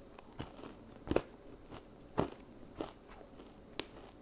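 A person chewing a mouthful of homemade chewy chocolate chip granola bar, with about five crisp crunches spread unevenly, the loudest about a second in.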